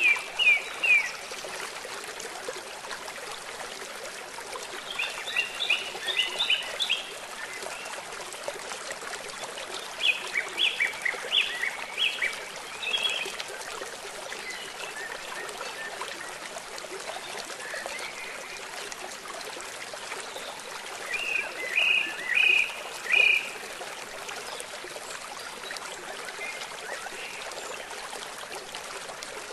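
Steady hiss of rain and running water, with a bird calling over it in four phrases of several quick, high chirps: one at the start, then about 6, 11 and 22 seconds in.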